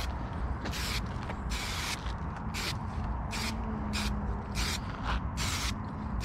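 Aerosol spray can sprayed in a series of short hissing bursts, about eight of them, each lasting a fraction of a second.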